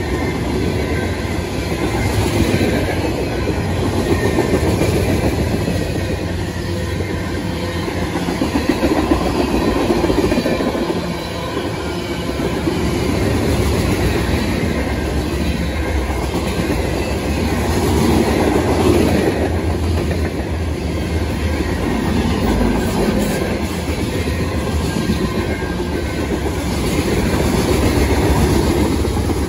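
Freight train cars rolling past close by: a steady rumble and rattle of steel wheels on rail that swells and eases as cars go by.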